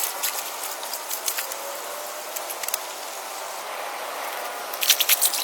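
Steady outdoor background hiss with faint steady tones, and a quick run of sharp clicks and crackles near the end.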